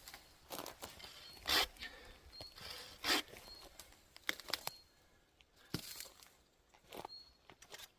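Footsteps crunching irregularly on a forest track, about one sharp step every second. A faint, short high note recurs every second or two behind them.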